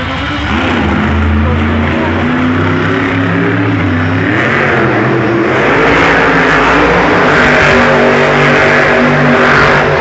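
Monster truck's supercharged V8 engine revving hard, its pitch climbing about four seconds in and holding high.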